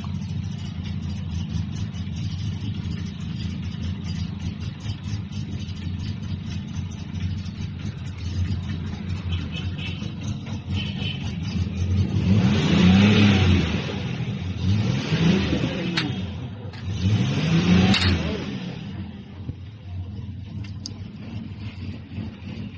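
Diesel engine idling steadily, then revved up and let back down three times in quick succession about halfway through before returning to idle.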